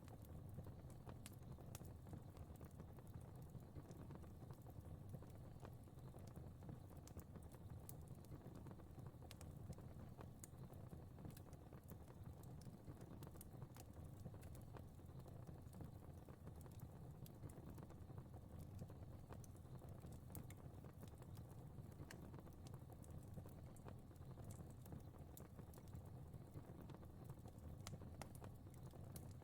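Fire crackling softly: irregular small pops and snaps over a low, steady rumble.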